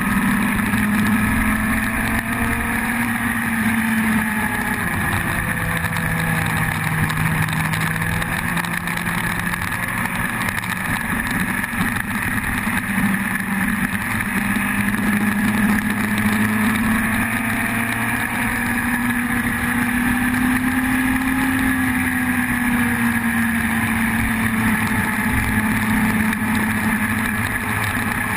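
Yamaha YZF-R1's inline-four engine running steadily, its pitch drifting slowly up and down with no sharp revs or gear changes.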